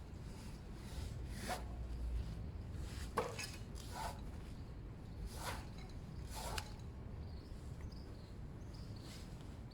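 Hand work: about six short rubbing, scraping strokes, most of them in the first two-thirds.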